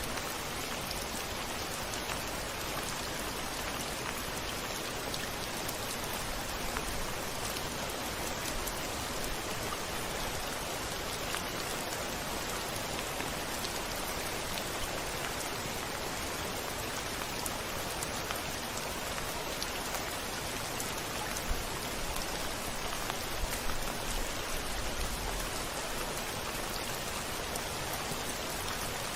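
Steady rain falling on a window. A short low rumble of thunder rises underneath about three-quarters of the way through.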